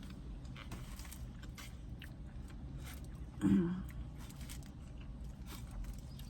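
A person chewing a mouthful of breakfast casserole close to the microphone, with small wet mouth clicks throughout and one brief louder sound about halfway through.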